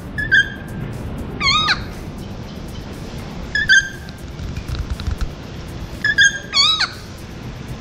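A bird calling in short bursts: a brief, even note and a wavering, falling cry, heard in three groups about three seconds apart.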